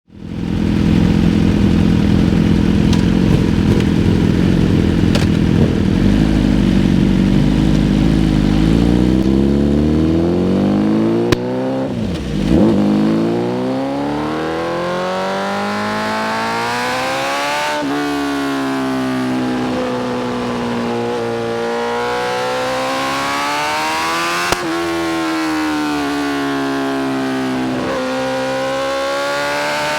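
BMW S1000RR inline-four running through a full titanium Spark exhaust. It is loud and steady for about ten seconds and briefly drops away near the twelfth second. After that the pitch climbs and then falls off sharply, three times over.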